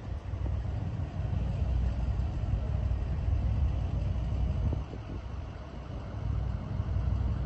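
Steady low rumble of a motor vehicle running, easing off briefly about five seconds in.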